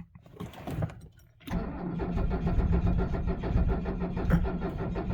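A click, then about a second and a half in the starter begins cranking the 1978 Mercedes-Benz 300SD's five-cylinder turbodiesel, turning it over steadily in 22-degree cold without it firing. The cranking is dragging the batteries down.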